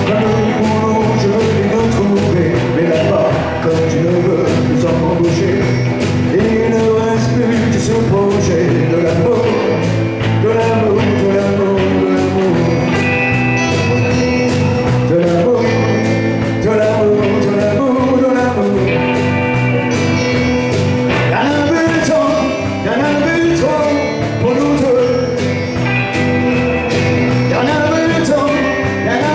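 A live band playing a country-rock song: a male singer over acoustic and electric guitars, bass and drums keeping a steady beat.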